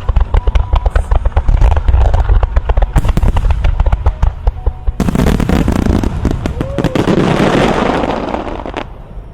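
A rapid volley of aerial firework shells bursting, dense sharp bangs over deep booms. About five seconds in it gives way to a dense continuous crackle and rush, which fades shortly before the end.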